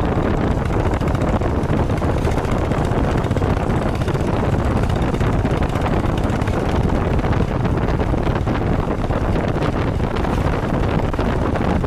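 Steady engine and road noise of a moving vehicle, with wind rushing over the microphone.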